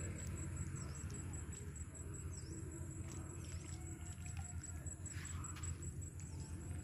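A steady low rumble with a bird chirping briefly every second or two over it.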